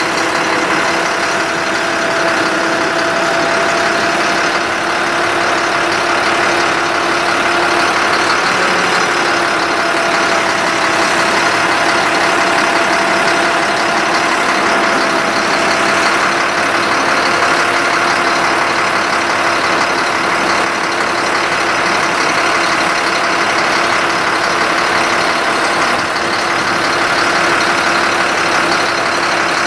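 Engine of a 2005 Ford F-750 forestry bucket truck running steadily with the PTO engaged, carrying a steady whine over a broad hiss.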